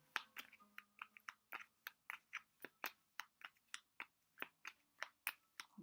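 A run of short, sharp clicks, about four or five a second at uneven spacing.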